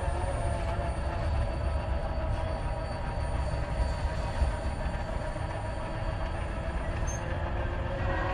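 A CSX mixed freight train's cars rolling along the track, with a steady low rumble of wheels on the rails.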